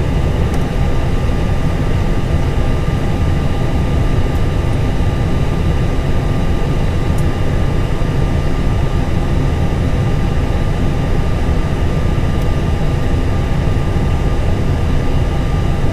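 Steady engine rumble and hiss in an Airbus A320 cockpit, with one engine running and the other being started, and a few faint steady tones above the noise.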